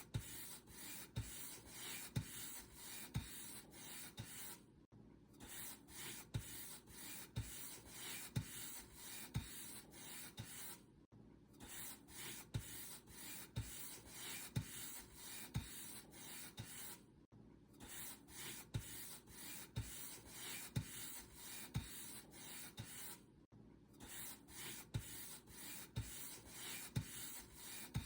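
Paint brush bristles stroking back and forth over a surface in a steady run of strokes, about two a second. The strokes stop briefly every six seconds or so.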